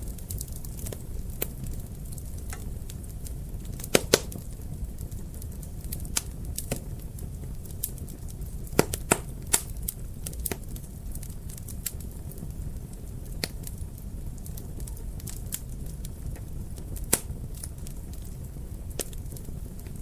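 Wood fire crackling in a fireplace: a steady low rumble of flames with scattered sharp snaps and pops. A few louder pops stand out, two close together about four seconds in, a cluster near nine seconds in and one near seventeen seconds in.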